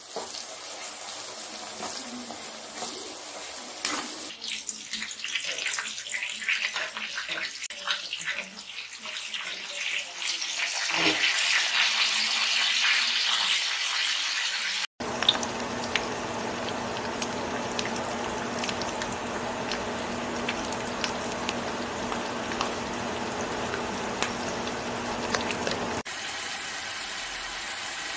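Food frying in hot oil: a steady sizzle with many small crackles, across a string of frying clips (sliced onions in a steel wok, breaded pieces in bubbling oil, burger patties). The sound changes abruptly three times where one clip ends and the next begins.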